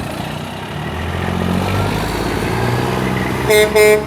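A heavy vehicle engine running with its pitch rising as it pulls away, then two short two-tone horn honks near the end.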